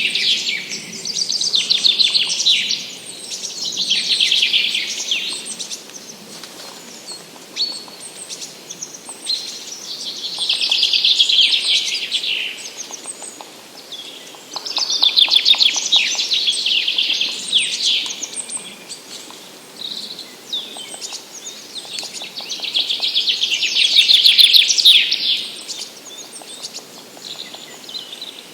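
Forest songbirds singing: a loud song phrase of two to three seconds repeats about six times, each a fast, high trill, with quieter chirps in the pauses between.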